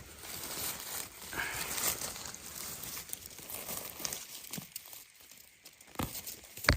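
Rustling and crackling of dry leaf litter on the forest floor as the ground is worked by hand while picking wild mushrooms, with two sharp snaps near the end, the second the loudest.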